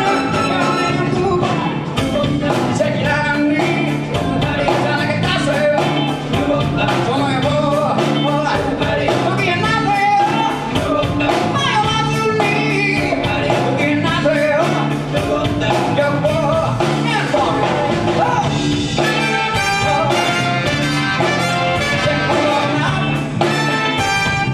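Live band music with a steady drum beat; the sound of the band changes about nineteen seconds in.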